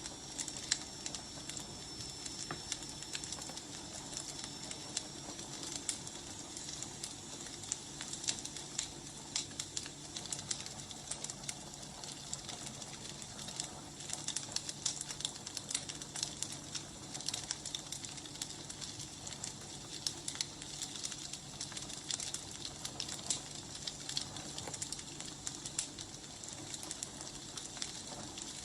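Firewood burning, with irregular sharp crackles and pops over a soft, steady hiss.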